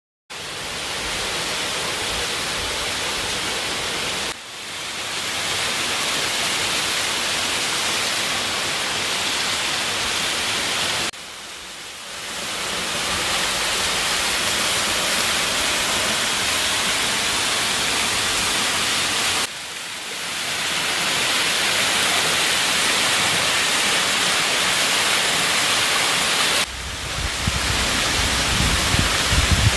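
Waterfall pouring: a steady, loud rush of falling water. It dips and resumes at a few points, and in the last few seconds it gains a deeper, uneven rumble.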